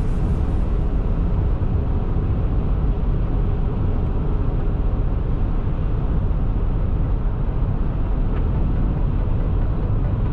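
Steady low rumble of a vehicle driving on a snow-covered highway: tyre and engine noise, unchanging throughout.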